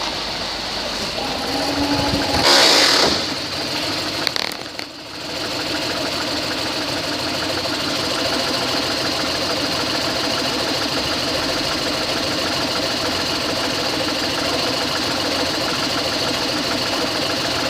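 2004 Toyota Sequoia's 4.7-litre V8 running steadily with the transmission in drive. About two and a half seconds in there is a short, louder rush of noise, and a brief dip a couple of seconds later, before it settles back to an even idle.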